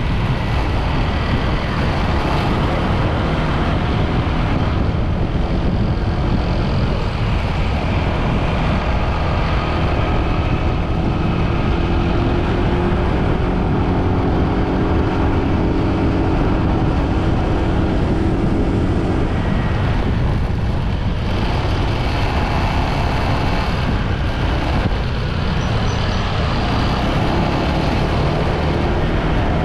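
Steady motorbike riding noise in traffic: engine and road noise with heavy low rumble. A droning engine tone stands out from about twelve to nineteen seconds in.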